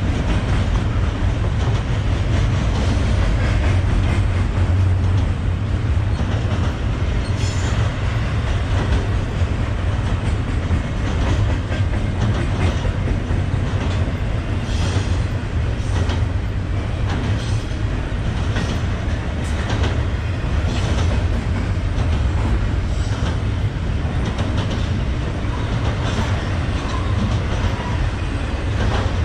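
Freight train rolling past, a steady low rumble with irregular clatter of steel wheels over the rail joints.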